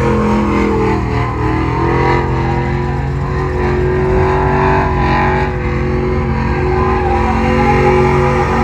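Pickup truck engine held at high, steady revs in a burnout pit, its pitch wavering only slightly.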